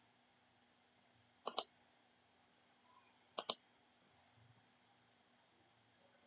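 Two sharp double clicks about two seconds apart, of the kind made when using a computer, over a faint steady hum.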